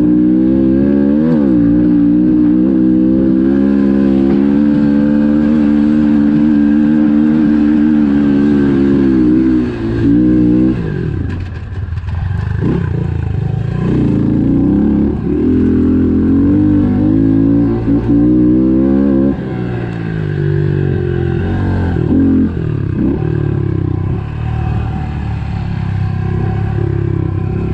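110cc pit bike's single-cylinder four-stroke engine being ridden around a dirt track, holding steady revs for about ten seconds, then repeatedly falling and rising as the throttle is rolled off and back on.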